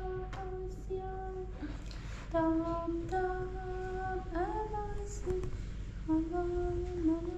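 A single voice singing a Persian song in long held notes, in about four phrases with a slide up in pitch a little past the middle, over a steady low rumble.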